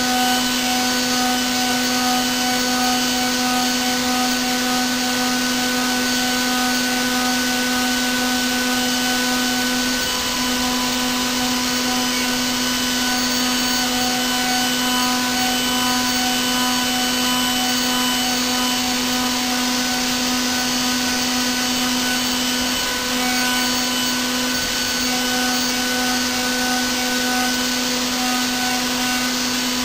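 Milling machine spindle running with an end mill cutting a 6 mm slot in brass: a steady whine over a hiss.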